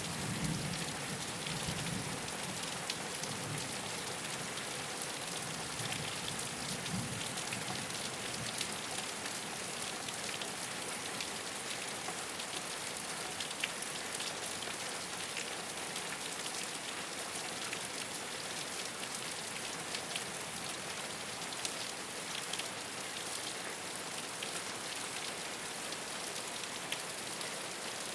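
Steady rain falling on a rooftop, a dense even patter with individual drops ticking through it. A low rumble of distant thunder dies away over the first several seconds.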